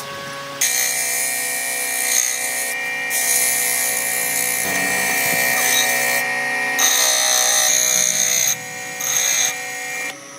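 Electric power tool cutting into wood: a steady motor whine with a hiss of cutting over it. The sound shifts abruptly in level and colour several times.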